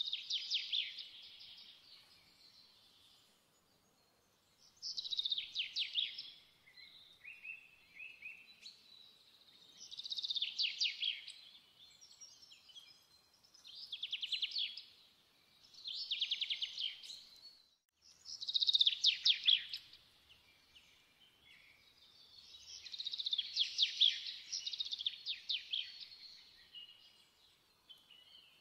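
A bird singing: high trilled phrases of a second or two, repeated every few seconds.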